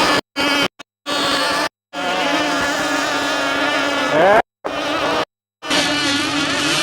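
Gas-engined RC racing powerboats buzzing at high revs, several engines overlapping, with one rising in pitch a little after four seconds in. The sound cuts out abruptly to silence several times for a fraction of a second each.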